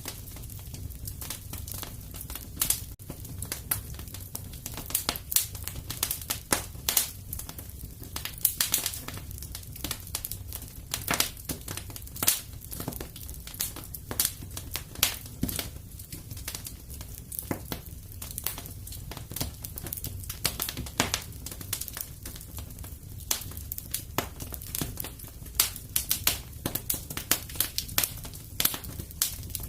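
Wood fire in a fireplace crackling and popping, with many irregular sharp snaps over a steady low rumble of the flames.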